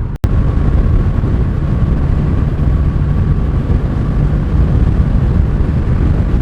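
Honda Rebel 1100 motorcycle riding at road speed: heavy wind rush on the rider's microphone over the low engine and road noise, steady throughout apart from a momentary dropout just after the start.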